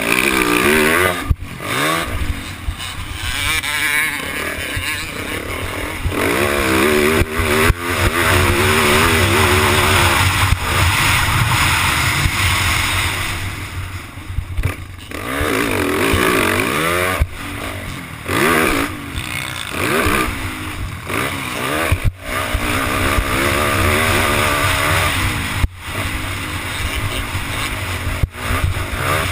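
Yamaha YZ450 motocross bike's single-cylinder four-stroke engine revving up and down over and over as the throttle is opened and chopped around a dirt track, with several brief drops in the sound.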